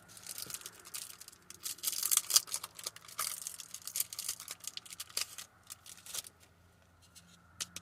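Crinkling and rustling of a trading card being slid into a plastic card sleeve, with quick clicks and scrapes of handling, busiest for the first five seconds and then dying down to a few light clicks.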